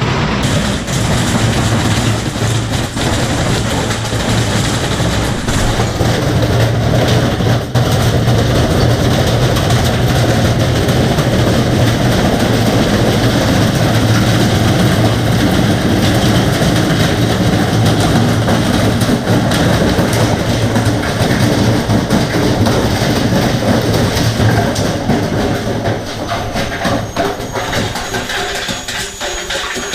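Whirlpool front-load washing machine in a violent, badly unbalanced spin, its drum and cabinet banging and rattling continuously with a steady low hum. It eases off a little near the end.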